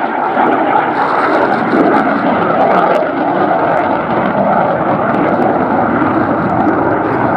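Eurofighter Typhoon's twin EJ200 jet engines, loud and steady through a display pass.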